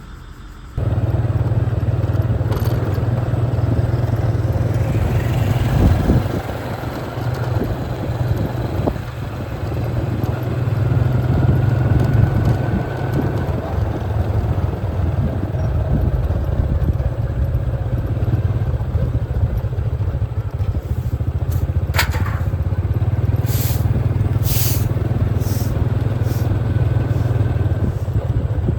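A motor vehicle's engine running steadily, a loud low rumble that starts abruptly about a second in, with a few sharp clicks near the end.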